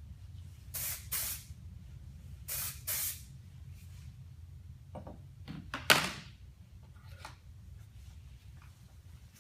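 Aerosol can of dry texture spray being sprayed onto hair in short hissing bursts, two quick pairs in the first few seconds. About six seconds in there is a louder sharp knock.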